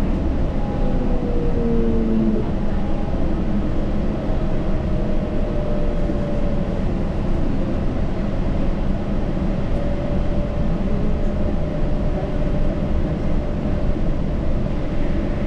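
Yurikamome rubber-tyred automated guideway train running at speed: a steady low rumble of tyres and running gear, with a few faint whining tones that slide in pitch during the first few seconds.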